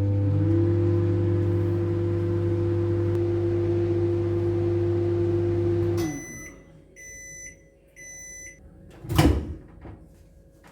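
Microwave oven running with a steady hum, then stopping about six seconds in and beeping three times, about a second apart. A sharp clunk follows near the end.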